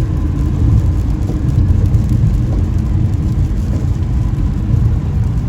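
Steady low rumble of road and engine noise inside a car moving at highway speed.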